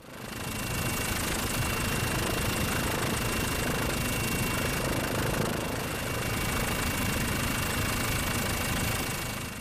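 A steady engine running, with a thin, high, steady whine over its rumble.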